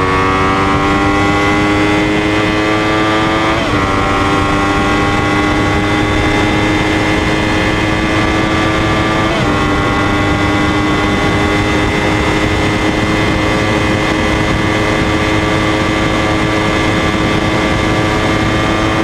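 Yamaha YZF-R1 sport bike accelerating hard. The engine note climbs slowly in each gear and drops sharply at upshifts about three and a half and nine and a half seconds in, then holds high and nearly steady in a long pull at speed.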